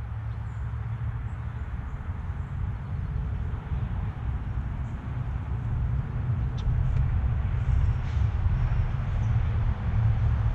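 Low, steady rumble of passing road traffic, growing louder in the last few seconds, with a few faint, short high chirps from small birds.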